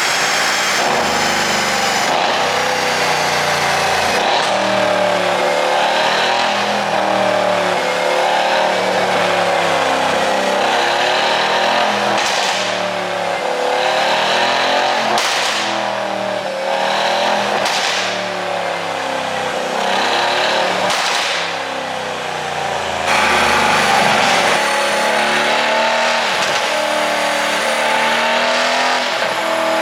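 Mercedes-AMG C63's twin-turbo V8 and exhaust revving up and down under hard driving, with several sharp cracks from the exhaust between revs, from an ECU tune set up to make pops on overrun.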